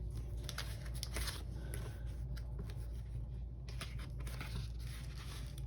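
Soft scratching and small light clicks of paper and stationery being handled on a planner page, over a low steady hum.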